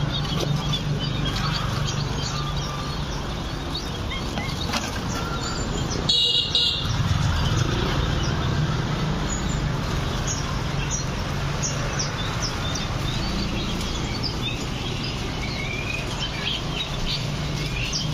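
Many small birds chirping and twittering in short, high calls, with one louder call about six seconds in, over a steady low hum.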